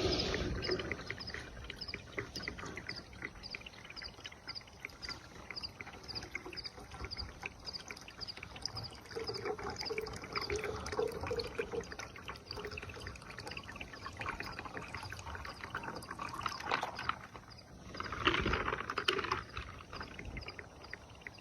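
Campfire kindling crackling and popping irregularly as it tries to catch, louder for a stretch near the end. A faint high chirp repeats about twice a second in the background.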